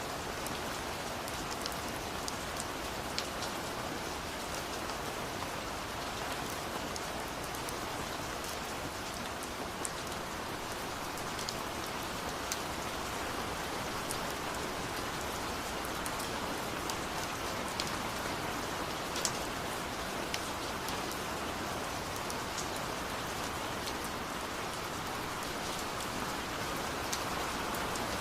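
Steady rain falling, with individual drops ticking sharply here and there over a constant hiss.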